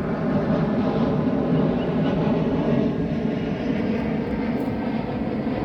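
Airplane flying overhead, a steady engine drone that eases slightly in the second half.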